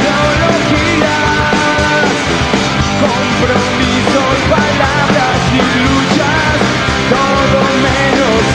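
Punk rock band playing live, with electric guitars, bass and drums going loud and steady without a break.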